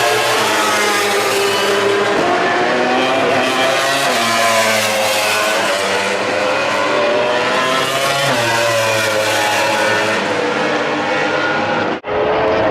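MotoGP racing motorcycle engines at full throttle. The engine note climbs and drops back again and again as the bikes accelerate and shift through the gears. The sound cuts out abruptly for an instant near the end.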